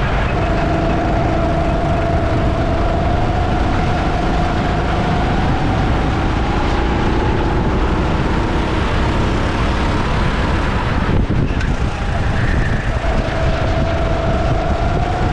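Go-kart running on track: a steady motor whine that climbs slowly in pitch over dense running noise. The whine drops away for a moment about eleven seconds in, then comes back and climbs again.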